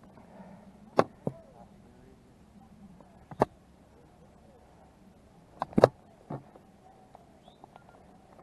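Several sharp, separate clicks or snaps at uneven intervals: two close together about a second in, one about three and a half seconds in, and a loud cluster near six seconds.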